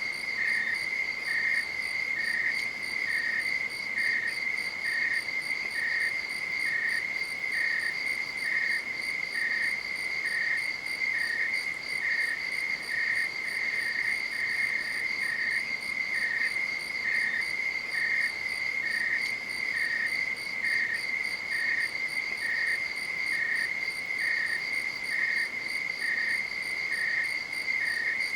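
Night insects trilling: one steady high-pitched trill with a second insect's pulsed chirp repeating evenly a little under twice a second.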